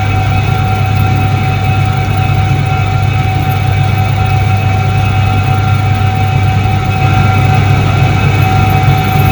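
Soviet Iset-3 washing machine from 1978 running, its electric motor giving a loud, steady low hum with a constant higher whine over it.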